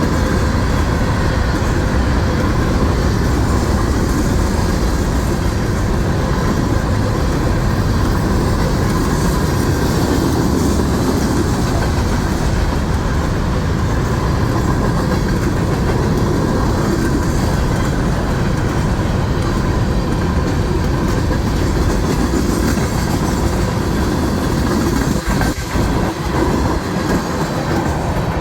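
Train running on its rails: a loud, steady rumble of wheels on track that dips briefly about 25 seconds in.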